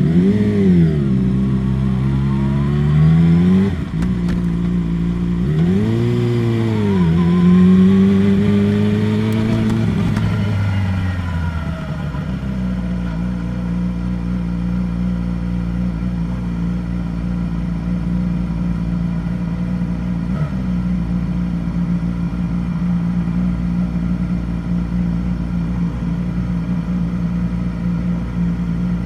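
2016 Yamaha R6's 599 cc inline-four sport-bike engine, revving up and down twice in the first ten seconds or so. About twelve seconds in, the revs settle and it holds a steady engine speed to the end.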